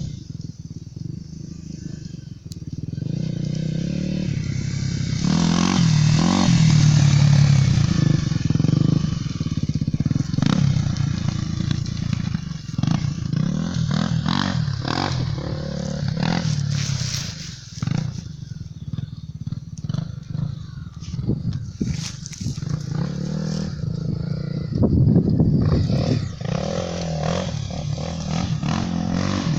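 Honda XR 250 Tornado's single-cylinder four-stroke engine working under load as the bike climbs a hill. The revs rise and fall repeatedly, with scattered knocks and rattles.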